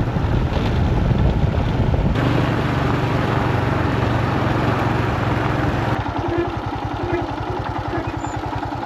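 Royal Enfield Himalayan single-cylinder motorcycle engine running, under a rushing noise that drops away about six seconds in, leaving a steady, even low chugging.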